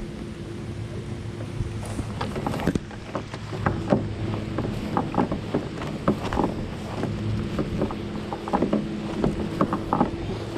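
A small boat's motor hums steadily and drops away at times, while waves slap against the hull in the wind in many short, sharp splashes.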